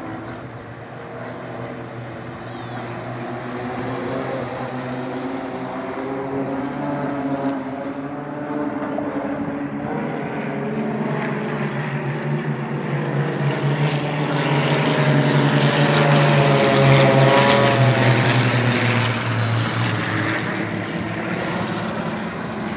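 Propeller aircraft engine droning overhead, growing louder as it approaches, loudest about three quarters of the way through, then fading as it passes.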